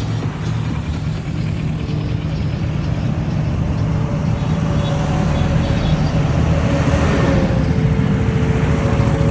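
Superbikes riding on the road: steady engine and road noise, with a steady higher tone joining about five seconds in.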